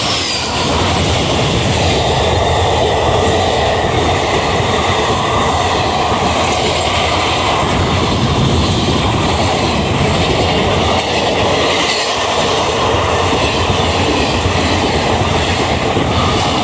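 ICF passenger coaches of an express train passing close by at full speed. Their wheels on the rails make a steady, loud rumble and rush that holds at the same level throughout.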